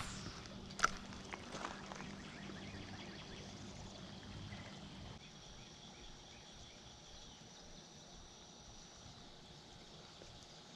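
Quiet outdoor ambience. A single faint knock comes about a second in, a low hum fades out about halfway, and a thin, high, steady tone is held for a few seconds in the second half.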